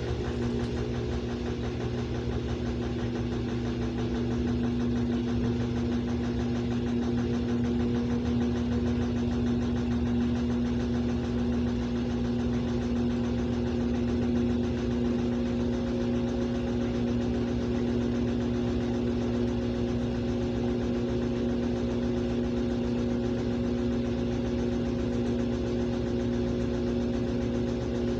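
Samsung washing machine running in its rinse cycle: a steady motor hum with a faint higher tone that rises slightly about halfway through.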